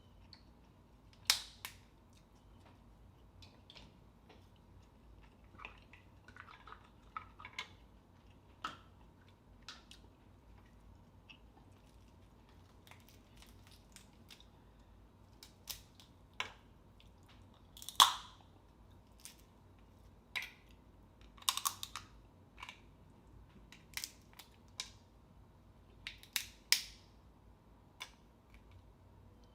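Close-up eating of seafood boil: sharp cracks and clicks of crab and mussel shells being broken and handled, scattered irregularly with chewing sounds between. The loudest crack comes about two-thirds of the way through.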